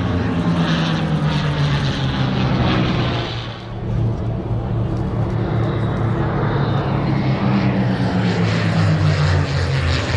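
P-51 Mustang piston fighters' V-12 engines droning as the planes fly an aerobatic formation pass, the note gliding with Doppler shift. The drone dips briefly about three and a half seconds in, then swells again with its pitch slowly falling near the end.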